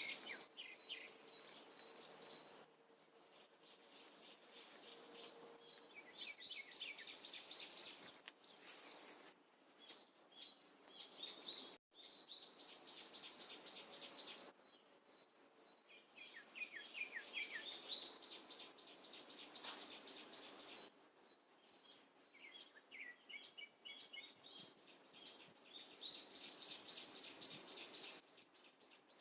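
Songbird singing: bursts of rapid, high, trilled notes about every six seconds, with softer chirps in between.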